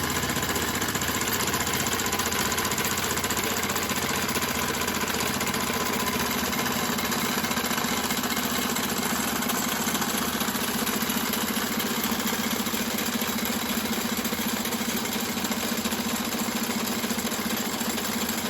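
Model steam engines running steadily, with a fast, even mechanical rhythm that does not change.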